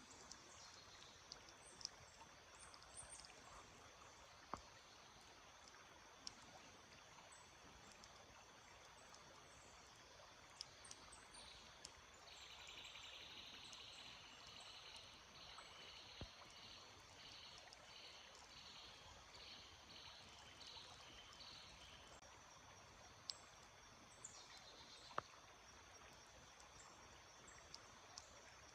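Faint, steady rush of a small stream, with small birds chirping now and then. Through the middle a high call pulses about one and a half times a second for roughly ten seconds, and a few sharp clicks stand out.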